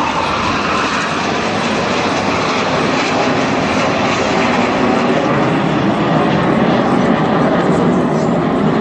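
A close formation of BAE Hawk T1 jet trainers flying past, their turbofan engines making a loud, steady jet noise that swells up just as it begins.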